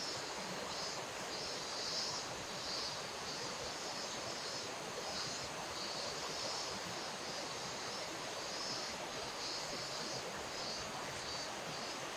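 River water running steadily, with a high buzzing that swells and fades in uneven pulses above it.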